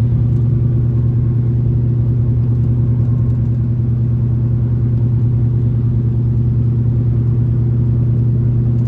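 A vehicle engine running at a steady speed: a loud, even low hum that does not rev up or down.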